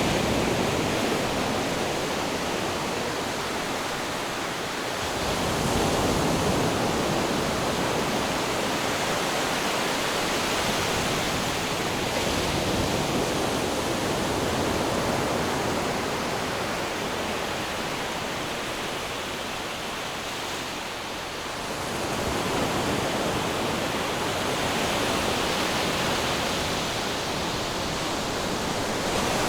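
Ocean waves: a steady wash of surf that swells twice, about six seconds in and again about twenty-two seconds in.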